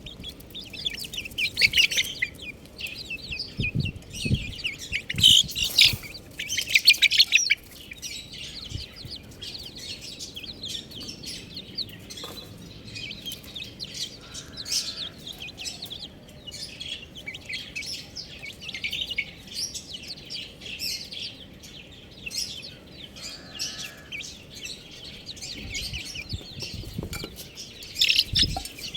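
Baby chicks cheeping: a rapid, overlapping stream of short high peeps, busiest and loudest in the first seven seconds or so.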